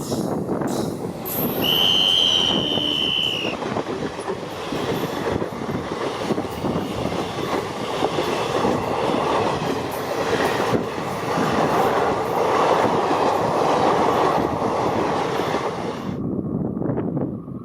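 Passenger coaches of an express train running past, wheels clattering over rail joints. A brief high-pitched wheel squeal comes about two seconds in. The rumble drops away sharply about sixteen seconds in as the end of the train passes.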